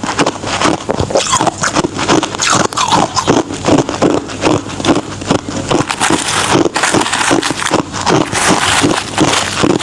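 Ice being chewed close to the microphone: rapid, steady crunching of hard ice, several crunches a second.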